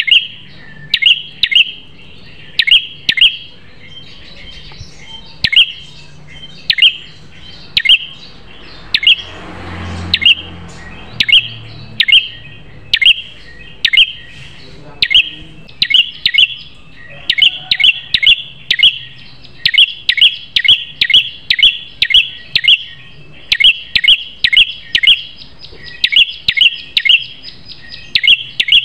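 Red-headed prenjak (a tailorbird) calling loudly with sharp, high chirps, each a quick downward sweep. The chirps repeat about once or twice a second, then come faster in quick runs of two to four notes in the second half.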